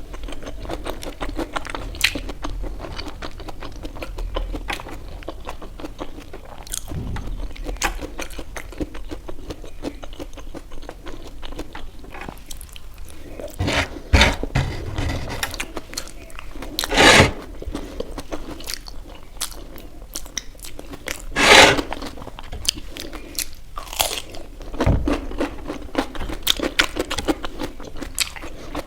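A person eating momos (vegetable dumplings) close to the microphone: steady chewing with crunchy bites, and a few louder bursts of mouth noise about halfway through and later.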